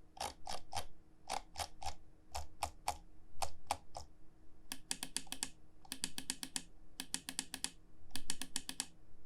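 GITOPER G2 gaming mouse buttons clicking. For about four seconds the clicks come singly in spaced press-and-release pairs, then in four quick runs of rapid clicks about a second apart.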